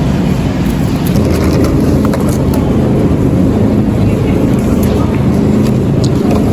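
A steady, loud, low mechanical drone with a few faint clicks.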